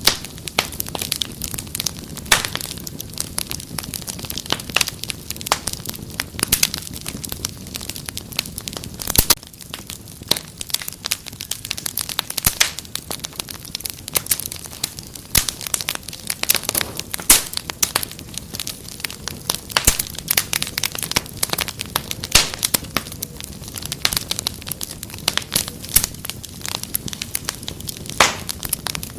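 Wood fire crackling in a fireplace: frequent, irregular sharp pops and snaps over a steady low rumble of burning.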